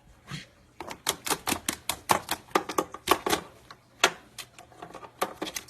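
A pet parrot biting and chewing at a cord with its beak: a quick, irregular run of sharp clicks and cracks, a few each second, starting about a second in.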